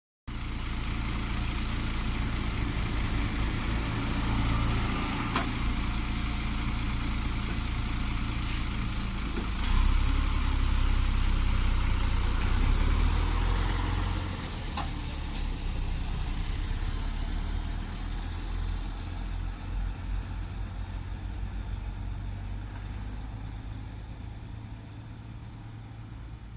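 Train running with a steady low rumble and a few sharp clicks, growing gradually quieter over the second half.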